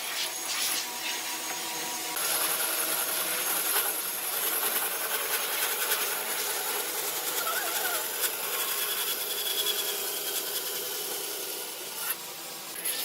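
A tool working wood with a steady rubbing, sawing-like noise. It gets louder about two seconds in and eases off about a second before the end.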